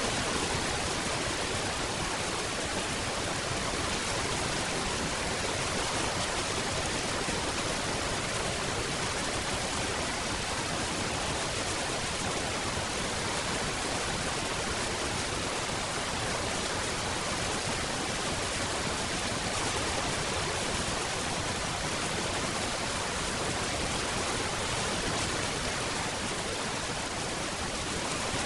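Steady rain, an even hiss with no separate drops standing out and no change in level.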